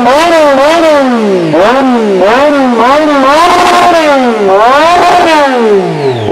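Motorcycle engines being revved over and over, the pitch climbing and then falling away about once a second, sometimes two at once. The longest fall in pitch comes near the end.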